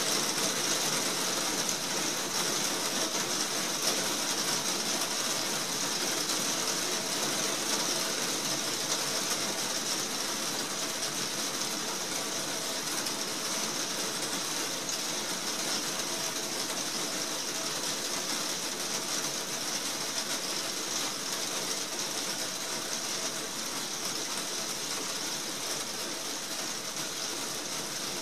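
Heavy rain falling steadily on a roof, heard from inside beneath it as a dense, even patter and hiss, easing slightly.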